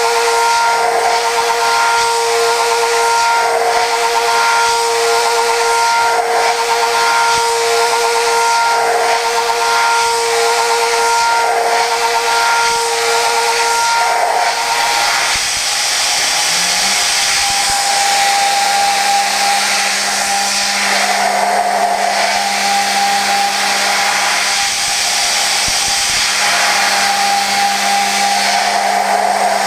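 Okuma GENOS M560V vertical machining center milling prehardened 4140 steel: a steady high-pitched cutting whine over a loud hiss, swelling in a repeating pattern about every two and a half seconds. About halfway through, after a short rising sweep, the whine changes to a lower, different pitch and keeps going steadily.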